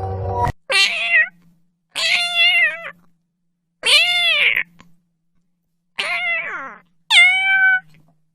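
Domestic cat meowing five times, each meow a short call that rises and falls in pitch, about one every second and a half. Background music cuts off about half a second in.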